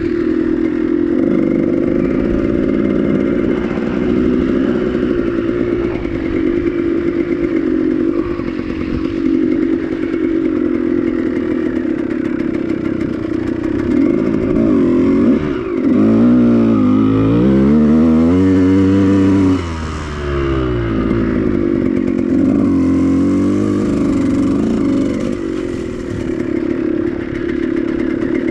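Dirt bike engines running steadily. About halfway through, an engine revs up and down several times in quick rising and falling sweeps, then settles back to the steady running sound.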